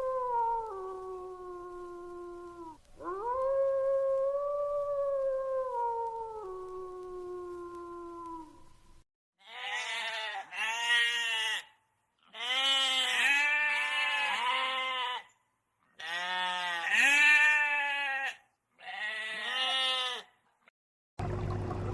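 Two long, smooth animal calls, each falling in pitch, followed by a string of short, wavering bleats in four bursts with pauses between them, like goats or sheep bleating.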